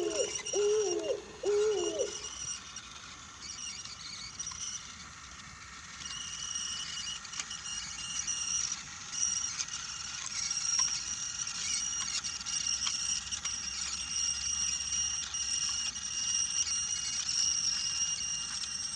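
A small electric toy-train motor whines steadily, with faint ticks of wheels running over the wooden track. In the first two seconds there are four short, repeated hoot-like notes.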